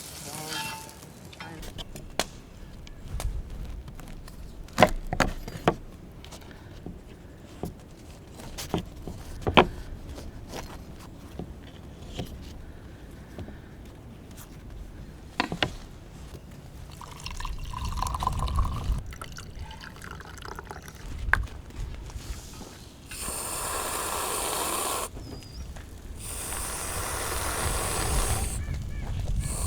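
Wood campfire crackling, with scattered sharp pops over a low rumble. Near the end come two spells of steady hissing, a few seconds each.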